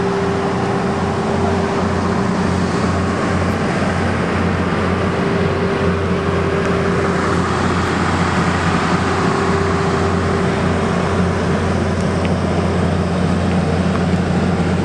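A standing train idling: a steady, low mechanical drone with a held humming tone.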